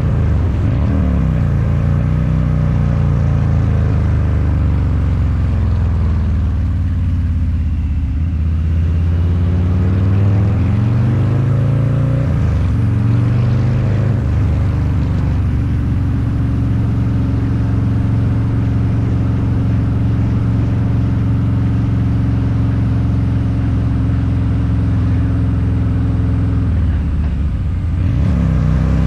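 Harley-Davidson Low Rider's 129 cubic inch V-twin with a Two Brothers Racing exhaust, running under way. The revs fall away over several seconds, climb again from about eight seconds in, and drop quickly around twelve seconds. The engine then holds a steady note for most of the rest, with a brief dip and rise again near the end.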